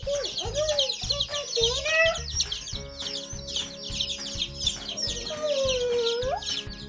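A brood of two-day-old Speckled Sussex chicks peeping constantly, many fast high chirps overlapping, over background music with a steady beat.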